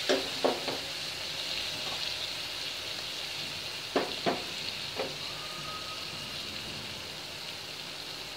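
Onion and garlic paste frying in hot oil with turmeric in a non-stick pan, sizzling steadily. A few sharp clinks come right at the start and again around four to five seconds in.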